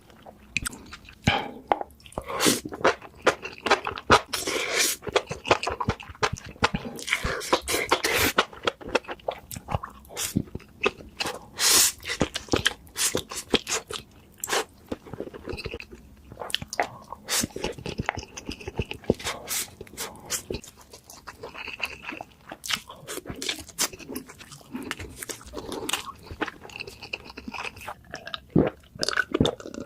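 A person chewing crunchy food with the mouth close to the microphone: many sharp, irregular crunches one after another.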